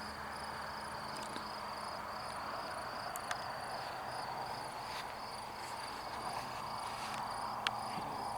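Crickets chirping in a steady pulsing trill, about two pulses a second, over the faint even whir of an RC model plane's electric motor and propeller, which swells near the end.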